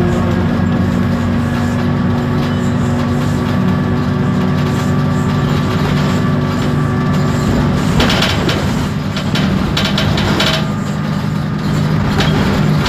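Onboard a 2012 Isobus City 1200 city bus under way: its MAN D0836 diesel engine and ZF Ecomat six-speed automatic driveline running steadily with a low hum. About eight seconds in, interior parts rattle for a couple of seconds.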